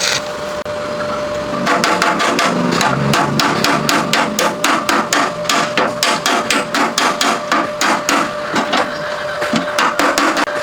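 A hammer striking rapidly and repeatedly, about four to five even blows a second, starting a little under two seconds in.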